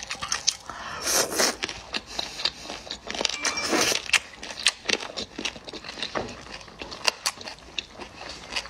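Close-miked chewing of spicy chicken feet in chili oil: wet mouth clicks and smacks as the skin and tendons are worked. There are two longer sucking sounds, about a second in and again between three and four seconds.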